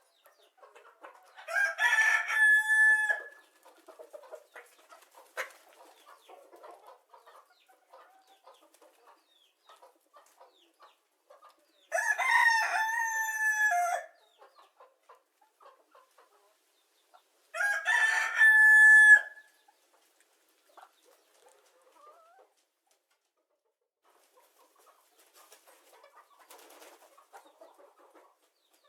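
Rooster crowing three times, each crow about two seconds long and ending on a held note, with long gaps between the crows.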